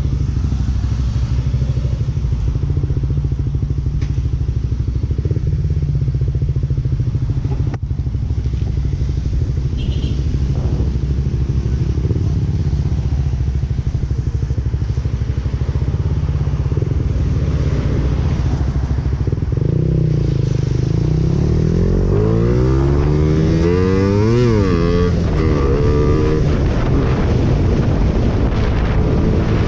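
Suzuki Raider Fi motorcycle's single-cylinder four-stroke engine running steadily. About two-thirds of the way through, the revs climb quickly and drop back, then it holds steady again.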